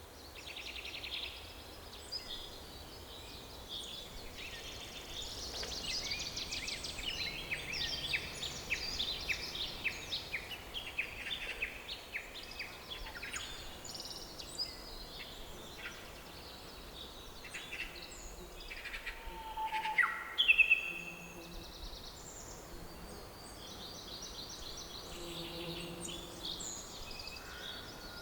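Several songbirds singing and calling over one another, with quick repeated chirps and trills, busiest in the first half, and one louder, sharper call about twenty seconds in, over a faint steady background hiss.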